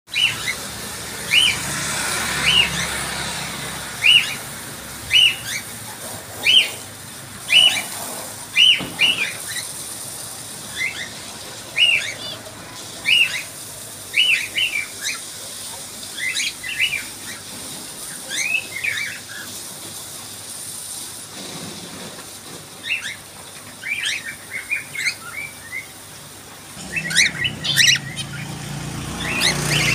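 Caged pet birds chirping: short, arching chirps repeated about once a second, growing busier and more jumbled in the last few seconds.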